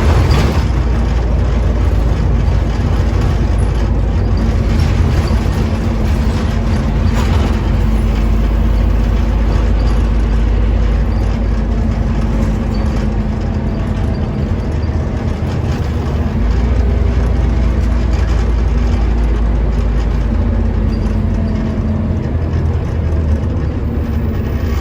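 Scania OmniCity double-decker bus's diesel engine running with a steady low rumble and hum, with road noise. There is a brief sharp clatter at the start and another about seven seconds in.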